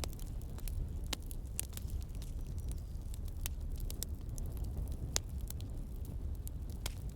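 Campfire crackling: irregular sharp snaps and pops of burning wood, over a steady low rumble of a flowing river.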